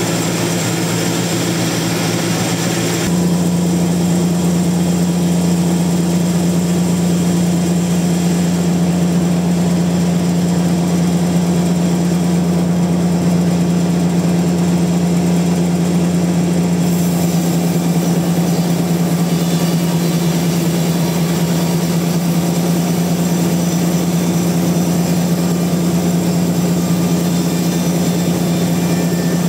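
Sawmill machinery running steadily: a loud, unbroken machine drone with a strong low hum. The sound shifts abruptly about three seconds in, then carries on steady.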